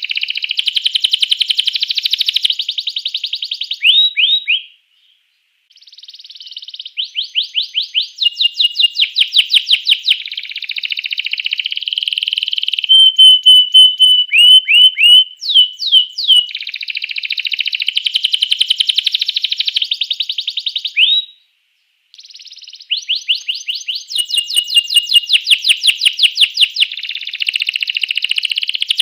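Domestic canary singing a long song of rapid trills, rolls and quick rising and falling whistled notes, broken by two short pauses, about five seconds in and again after about twenty-one seconds.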